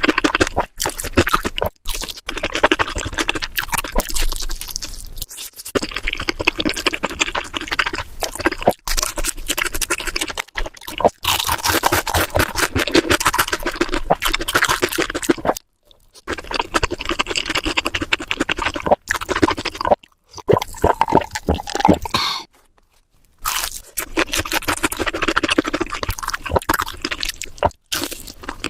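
Close-miked crunching and chewing of crispy fried food, a dense run of crackles broken by a few sudden short silences.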